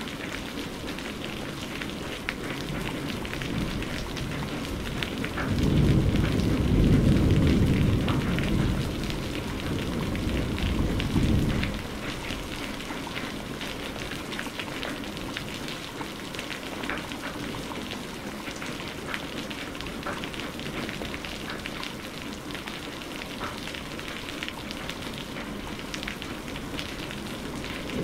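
Steady heavy rain pattering on surfaces, with a low rumble of thunder rolling in about five seconds in and fading out around twelve seconds.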